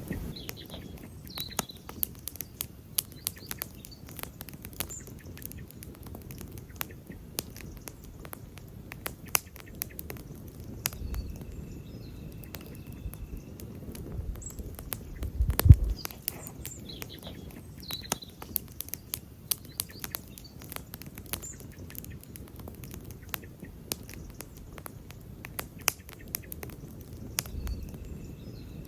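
Campfire of burning wood crackling, with many sharp pops over a low rumble of flames; one louder pop with a low thud comes about halfway through. A few faint high chirps are heard in the background.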